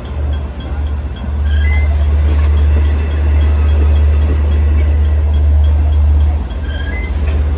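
Long Island Rail Road diesel train running past with a heavy, steady low rumble that swells about a second in and eases near the end, with a few brief high squeaks over it.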